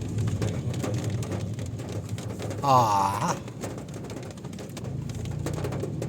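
Car cabin noise in slow traffic: a steady low rumble of the engine and road, with a short voice-like call about halfway through.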